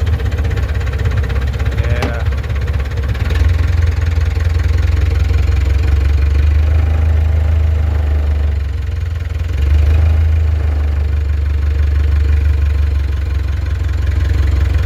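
Log skidder's diesel engine running just after a cold-weather start, its block pre-warmed by hot water circulated from a truck's heater. The running is deep and steady, with the loudness sagging a little past the middle and picking up again about ten seconds in.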